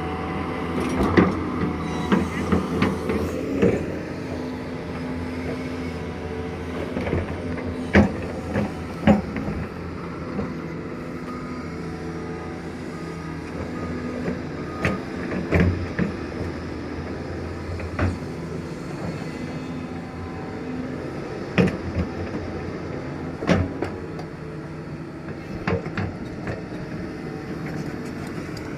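Diesel engine of a Doosan DX225LCA crawler excavator running steadily, with sharp metal clanks and knocks every few seconds, loudest about a second in and around eight, nine, fifteen and twenty-one seconds in.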